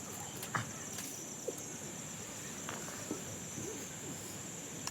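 Autumn crickets chirring steadily in a high-pitched, continuous chorus, with a few small clicks and knocks scattered through it.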